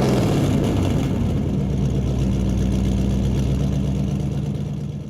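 Big truck engine idling with a steady low rumble, fading out at the end.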